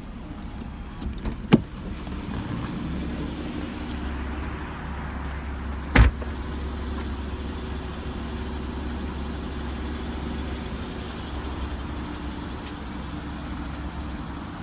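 2013 Porsche Boxster's flat-six engine idling steadily, with two sharp knocks, one about a second and a half in and a louder one about six seconds in.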